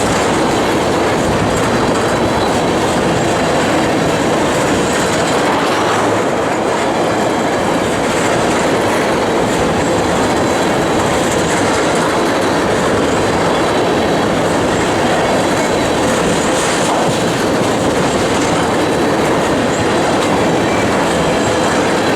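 Loaded crude-oil tank cars of a freight train rolling past at close range: steady, loud wheel-on-rail noise that carries on without a break.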